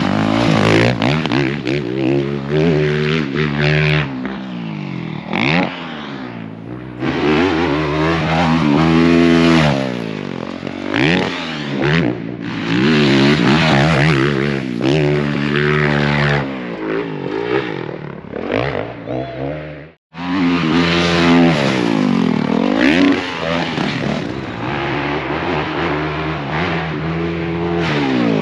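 Motocross bikes on a dirt track, engines revving hard and backing off again and again as the pitch climbs and falls through the gears. The sound cuts out abruptly for a moment about twenty seconds in, then the revving carries straight on.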